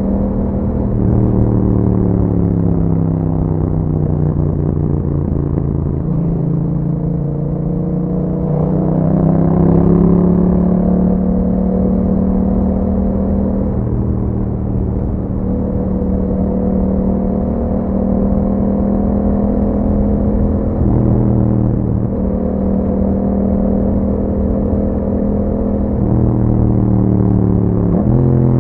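Yamaha MT-07 parallel-twin engine through an Akrapovic exhaust with the dB killer removed, heard on the move. The revs fall away at first, climb again, hold fairly steady, then climb once more and drop sharply near the end, as at an upshift.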